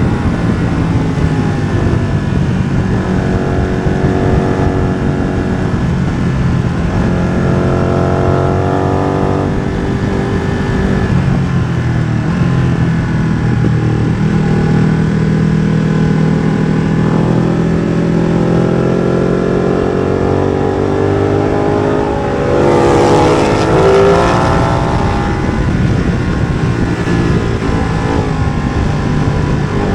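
Ducati Streetfighter V2's V-twin running hard through a MIVV exhaust with the dB killer removed, its pitch climbing and falling again and again as it revs up through the gears and drops at each change. It gets louder and rougher briefly about three quarters of the way through.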